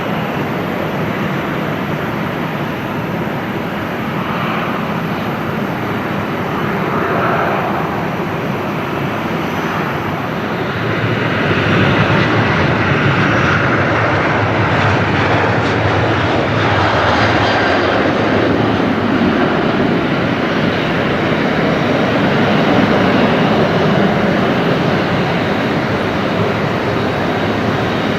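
Boeing 737-300 jet airliner's CFM56 engines during its landing: a continuous, even rushing jet noise that grows louder about twelve seconds in and stays loud.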